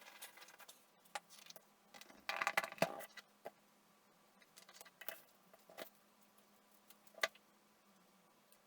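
Small hard parts and tools being handled and set down: scattered light clicks, with a brief busier metallic clatter about two and a half seconds in.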